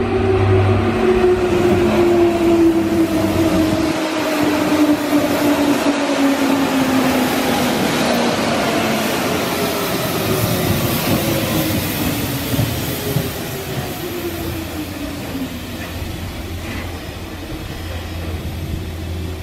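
Hanshin 5000 series 'Jet Car' commuter train running past on the rails. Its traction motor whine falls steadily in pitch for about fifteen seconds as the train slows, over the rumble of wheels on track.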